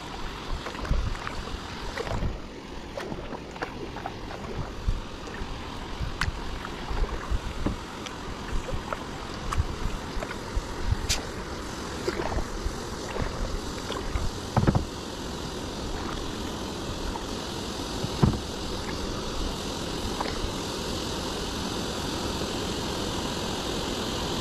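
Water lapping and splashing around a kayak, with scattered small knocks and splashes; two louder ones come a little past the middle. A steady rushing noise takes over near the end.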